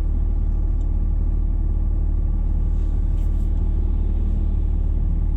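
Car driving on a road: a steady low rumble of engine and road noise with a faint constant hum.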